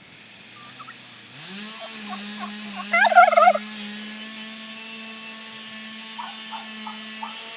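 A turkey gobbling once, a loud rapid warbling burst about three seconds in, over a steady hum. A few short chirps follow near the end.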